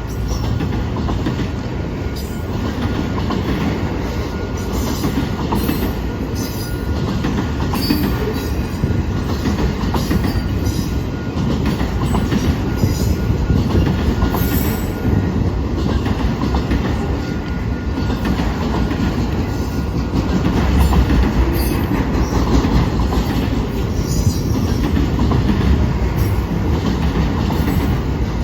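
Norfolk Southern freight train rolling past: a steady rumble of wheels on rail with irregular clacks and a faint, steady, thin wheel squeal.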